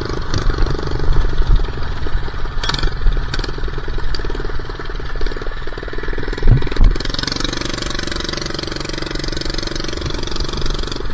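Minibike engine running under way, with wind rumbling on the microphone; about seven seconds in the engine settles to a steadier pitch. Two loud low thumps come just before that.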